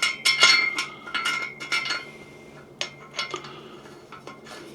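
Metal parts of an overhead camera rig's camera mount clicking and clinking as the mount is fitted and tightened onto the rig: a quick run of clinks with a faint metallic ring over the first two seconds, then a few scattered clicks.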